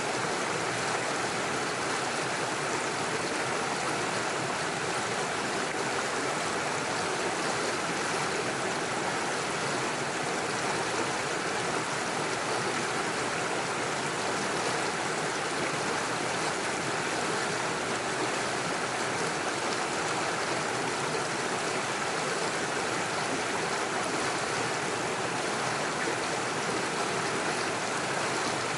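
Small stream running over stones and little waterfalls: a steady, even rush of flowing water.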